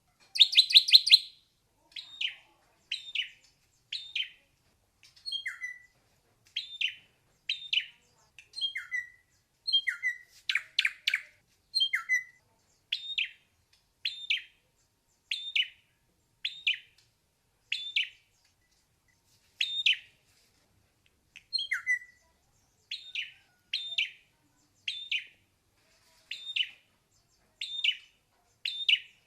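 Ashy drongo singing: short, sharp notes repeated about once a second, some dropping in pitch. There is a quick rapid burst of notes near the start and another about ten seconds in.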